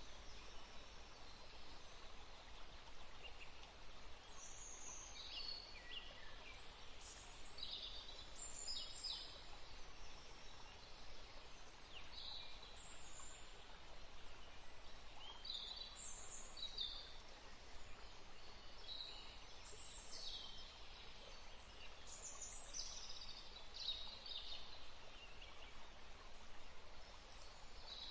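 Songbirds chirping: many short, high calls, often falling in pitch, scattered through the whole stretch over a steady background hiss.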